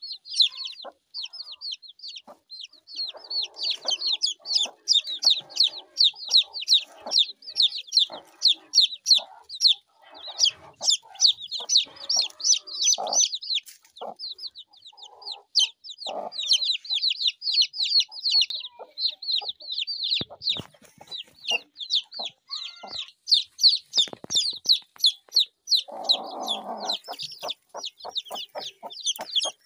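Chickens: a continuous chorus of short, high chirps, several a second, with lower calls now and then.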